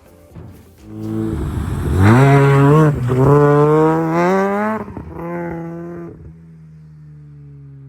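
Mazda RX-7 rotary engine revving hard twice, the pitch climbing each time, then a fainter tone sliding slowly down in pitch as it dies away.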